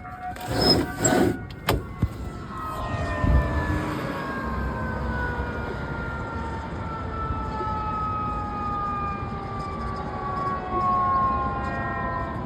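Fire truck siren. A few loud, sharp blasts in the first two seconds, then a long wail that slowly falls in pitch as it winds down.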